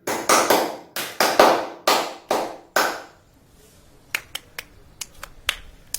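A quick run of about ten sharp, ringing percussive hits over the first three seconds, then a handful of faint, short clicks at uneven intervals.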